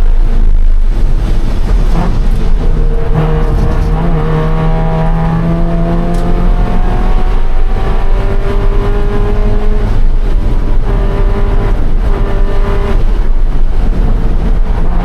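A 2013 Scion FR-S's flat-four engine running hard under race load. The note climbs slowly through a long pull in the middle, with a few brief breaks in the tone.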